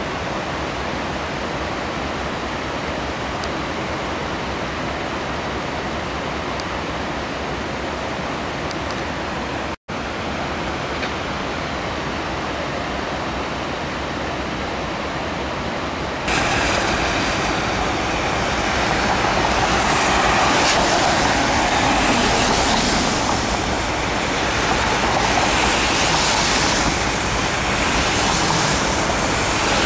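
Freight train with CN diesel locomotives rolling across a stone arch bridge, a steady rumbling hiss of engines, wheels and rail. The sound drops out for an instant about a third of the way in; a little past halfway it gets clearly louder as the locomotives pass closer, with a brighter hiss that swells and fades.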